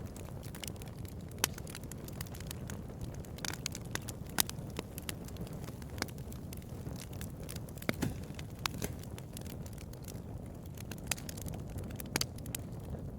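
Bonfire crackling: a steady low rush of burning wood with frequent sharp snaps and pops, a few of them louder than the rest.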